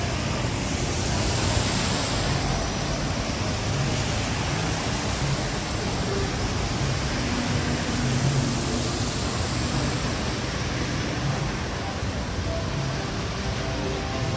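Heavy rain falling steadily, with a low rumble of traffic underneath.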